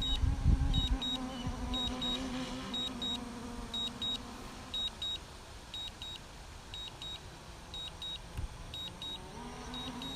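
DJI Phantom 4 remote controller beeping in short high double beeps, a pair about every second, as it signals Return to Home. Wind buffets the microphone in the first second, and a low steady hum fades out about halfway and comes back near the end.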